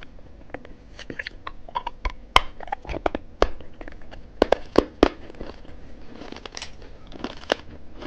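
Irregular sharp crackles and crunches close to the microphone, the loudest between about two and five seconds in: an eyeball lollipop being unwrapped and bitten.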